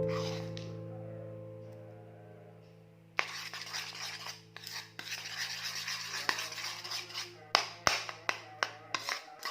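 A held music chord fades away over the first three seconds. Then a slime mixture is stirred and worked in a container, giving a continuous wet scraping with many irregular clicks.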